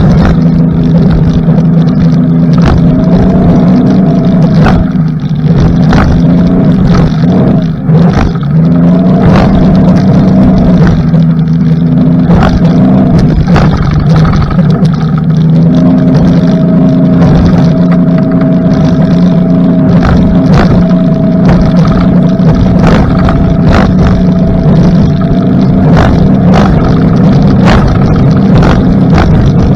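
Suzuki DF60 four-stroke outboard driving a rigid inflatable boat at speed: a steady engine drone that dips briefly about eight seconds in and comes back up, with frequent short thuds over it.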